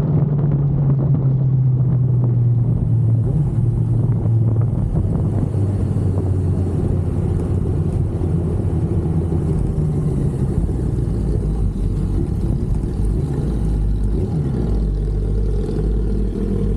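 Sport bike's inline-four engine running under way, its pitch easing down over the first few seconds as the revs drop, then holding steady, with a rush of road and wind noise.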